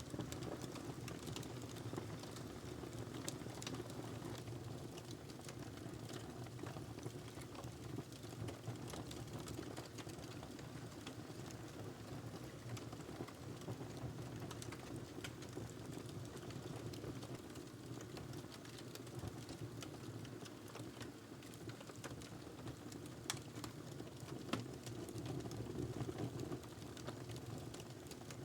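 Wood fire burning in a fireplace: a steady low rush of flames with a constant scatter of small crackles and pops, and a couple of sharper pops about two-thirds of the way through.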